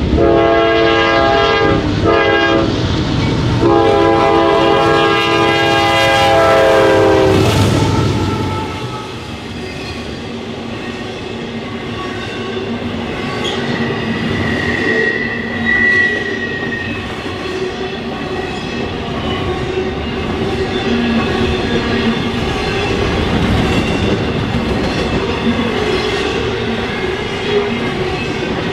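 Diesel locomotive air horn sounding a multi-note chord in three blasts, the last the longest, cutting off about seven and a half seconds in. A train then rolls past with wheels clacking on the rails and a brief wheel squeal in the middle.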